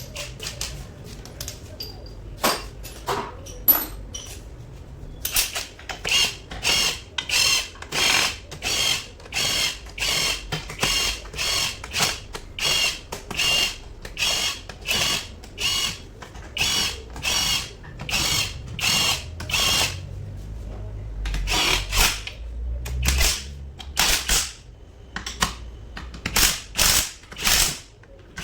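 Hand ratchet wrench being worked in quick repeated strokes, each swing a short burst of pawl clicks, about two a second. A low rumble comes in about three quarters of the way through.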